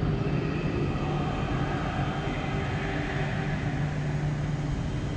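Deutsche Bahn Intercity train rolling slowly into the platform, a steady low rumble and hum with a faint high whine in the middle.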